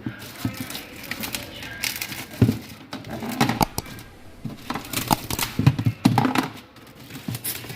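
Irregular knocks, clicks and rustles as the refrigerator's plastic freezer parts are handled and its Cool Pack, a heavy cold-storage block, is taken out.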